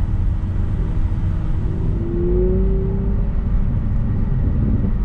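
Straight-piped BMW V12 driving at cruise, heard from inside the cabin as a steady low drone with road rumble. A faint tone rises slightly about two seconds in.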